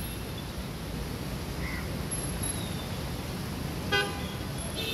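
Heavy rain falling steadily, with a brief vehicle horn toot about four seconds in.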